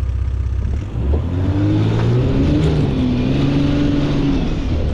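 Jeep engine revving hard under load while climbing a steep snow-covered hill: a steady low drone at first, then about a second in the revs climb and rise and fall repeatedly.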